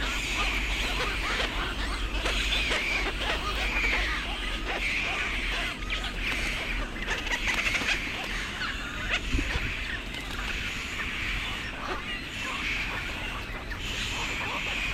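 Many birds calling at once: a dense, continuous chorus of overlapping harsh calls and chatter, with clusters of calls recurring every second or so.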